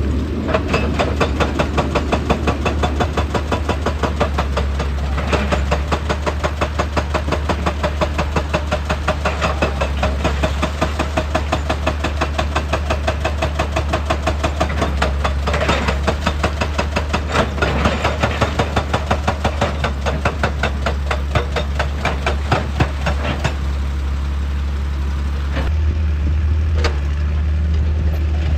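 Excavator's hydraulic rock breaker hammering rock with a rapid, even run of blows over the steady diesel engine, until the hammering stops about four-fifths of the way through and the engine runs on, with a couple of single knocks near the end.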